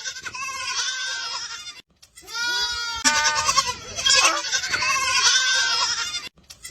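Goat bleating over and over in wavering, quavering calls, with a short pause about two seconds in.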